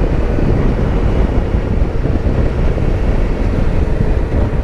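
Kawasaki Versys-X 300 being ridden at a steady speed: its parallel-twin engine runs under a heavy, even wind and road rush on the helmet microphone.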